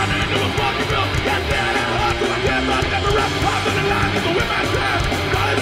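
Hardcore punk band playing live: loud distorted electric guitars, bass and drums in a dense, steady stretch of the song with no vocals.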